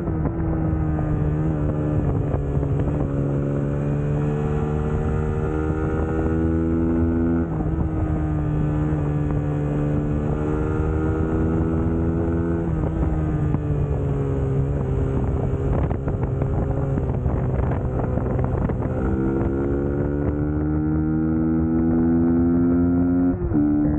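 Suzuki GSX-S150's single-cylinder four-stroke engine running under way, its pitch drifting with the revs and stepping suddenly a few times, with wind noise on the microphone.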